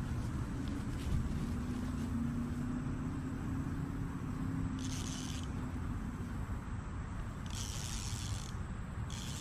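A low rumble with a steady motor hum that fades out about two-thirds of the way through, and short high buzzing bursts about halfway and again near the end.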